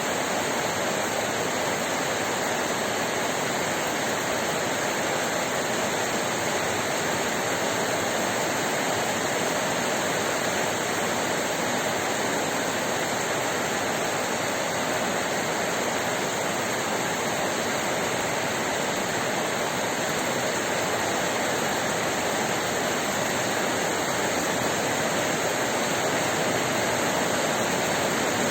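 Heavy rain pouring down steadily, a dense, even hiss of water without a break.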